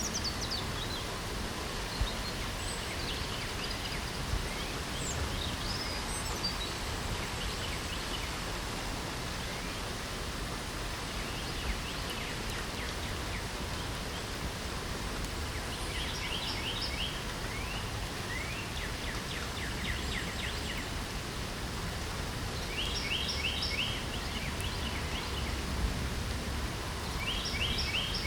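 Steady light rain falling, with birds singing over it: scattered chirps and whistles, and in the second half short rapid runs of high notes repeated every few seconds.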